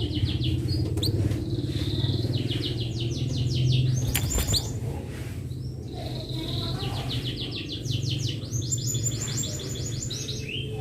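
Domestic canary singing in fast trilled rolls of high notes, several phrases in a row, over a steady low hum.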